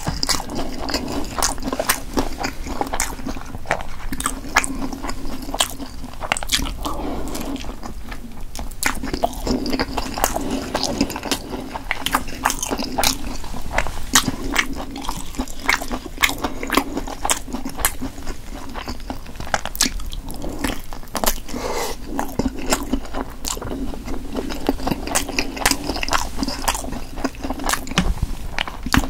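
Close-miked chewing and biting of Korean blood sausage (sundae), with many irregular sharp wet clicks of the mouth and food.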